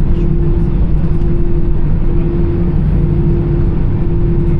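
Cabin noise of an Airbus A320 taxiing, its CFM56 engines at idle: a steady low rumble, with a hum that breaks off briefly about once a second.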